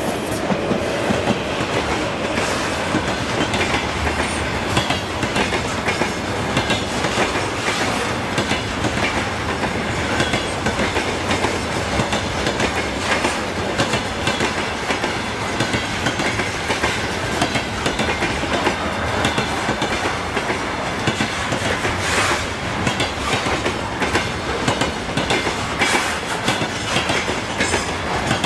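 Freight train rolling past, its wheels clacking steadily over the rail joints.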